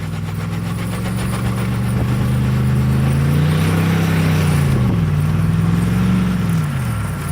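Motor vehicle engine running in snow. Its pitch climbs as it is revved about halfway in, dips, rises again, and drops away near the end.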